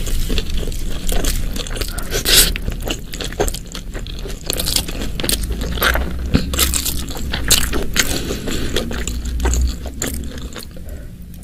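Close-miked eating: irregular wet clicks and crunches of biting and chewing a meal of spicy shredded chicken, beef tendon satay and rice, tailing off near the end.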